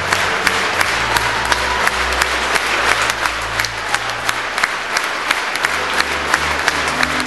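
Concert audience clapping in unison, a rhythmic ovation of about three claps a second, with low sustained musical tones underneath.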